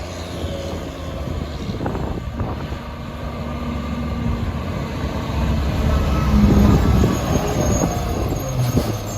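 Mack MR rear-loader garbage truck's diesel engine running, getting louder from about five seconds in with a short rise in pitch around six and a half seconds.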